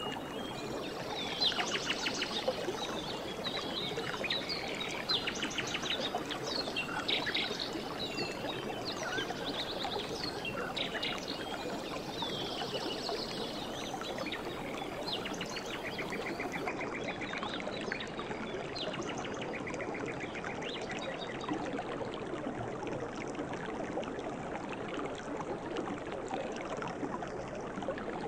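Jungle ambience: birds chirping and trilling over a steady rushing background hiss. The calls are busiest in the first half and thin out later.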